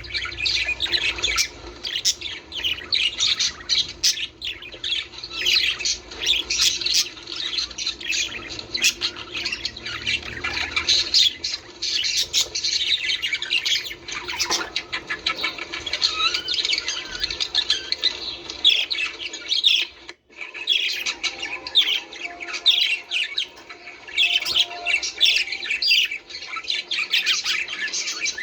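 A flock of budgerigars chattering continuously, a dense mix of warbling chirps and squawks. The sound cuts out for an instant about twenty seconds in.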